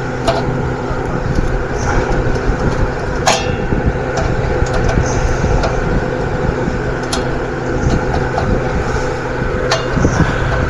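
Steady machine drone with a constant low hum, with a few sharp metallic clicks of work on the equipment, the loudest about three seconds in.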